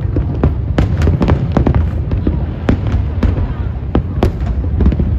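Aerial fireworks bursting in a large display: a string of sharp, irregular bangs and cracks, sometimes several a second, over a constant deep rumble of shells going off.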